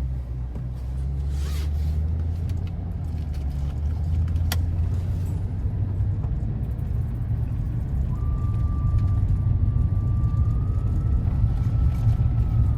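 Truck driving on a gravel road: a steady low rumble of engine and tyres, with a single sharp click about four and a half seconds in and a faint thin steady tone joining about two-thirds of the way through.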